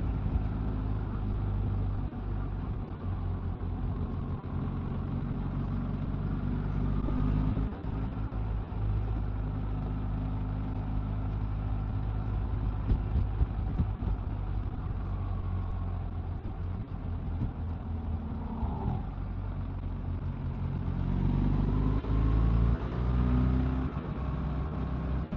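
Honda Gold Wing motorcycle engine running steadily at road speed under wind and road noise, getting louder for a few seconds near the end.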